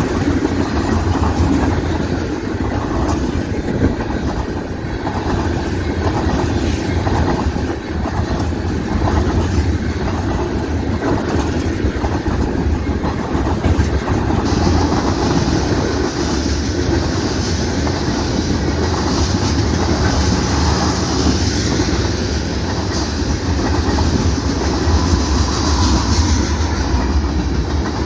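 Freight train cars rolling past, wheels clicking in a steady rhythm over rail joints above a constant low rumble. A high hiss joins about halfway through.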